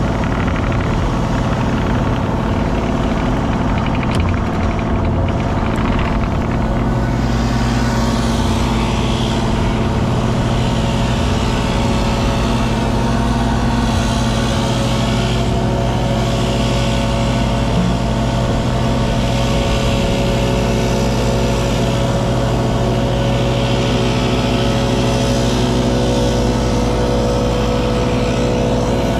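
Kubota KX033 mini excavator's diesel engine running steadily under work, with a higher hiss swelling and fading every few seconds as the hydraulics are worked.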